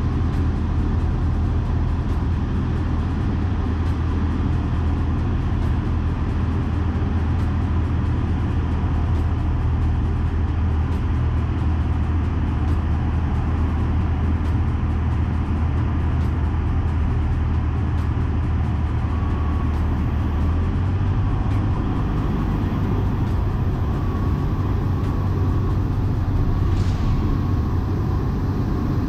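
Cessna 152's four-cylinder Lycoming engine and propeller droning steadily, heard from inside the cockpit, its note shifting slightly about two-thirds of the way through.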